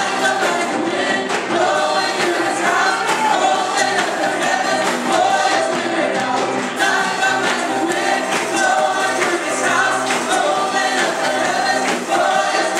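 Church worship team singing a gospel praise song, several voices together over instrumental accompaniment with percussion hits.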